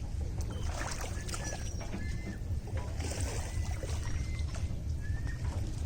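Lake water lapping and sloshing in small irregular splashes, with scattered short bird chirps and a steady low rumble of wind on the microphone.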